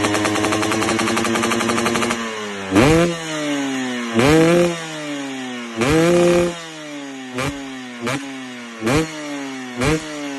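KTM 300 TPI single-cylinder two-stroke engine through a full-system aftermarket exhaust, held at high revs for about two seconds, then dropping to idle. It is then revved in seven quick throttle blips, each rising sharply and falling back to idle.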